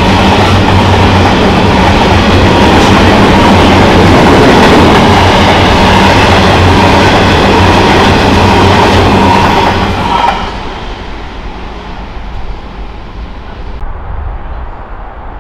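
Freight train hopper wagons rolling past on the rails, a loud steady rumble of wheels. About ten seconds in the last wagon passes and the noise drops off sharply to a much quieter background.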